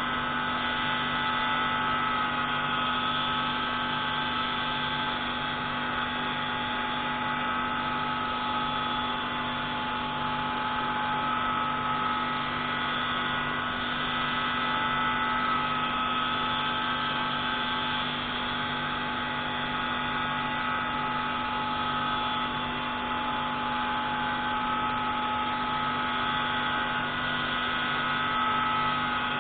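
Pneumatic grinding tool running steadily on a marine-engine intake valve: a constant whine of several steady tones over a hiss, with no change in speed.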